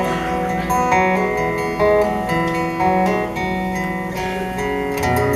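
Acoustic guitar strumming slow chords that change about once a second, the instrumental ending of a country ballad.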